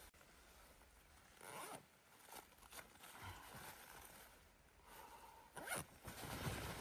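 A zipper pulled in several short strokes, a few together in the first seconds and a louder one near the end.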